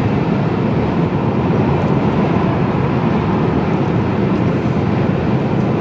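Steady engine and road noise inside the cab of a Mercedes-Benz Actros lorry on the move, a deep, even rumble with no change in pitch.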